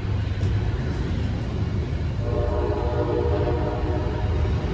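MBTA Commuter Rail train rolling past the platform with a steady low rumble. About two seconds in, a train horn sounds and is held for a couple of seconds, ending just before the end.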